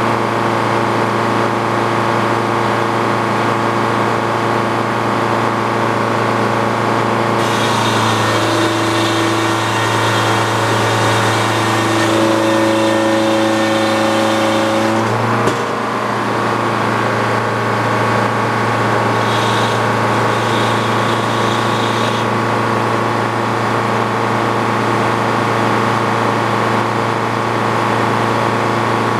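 Engine powering an antique Frick sawmill, running steadily. From about seven seconds in, a hiss and a changed, whining note join it for about eight seconds and end suddenly: the circular saw cutting through the pine log. A shorter, fainter hiss follows a few seconds later.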